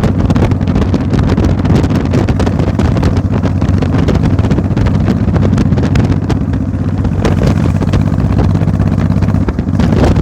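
An engine running at a steady pitch, with wind buffeting the microphone.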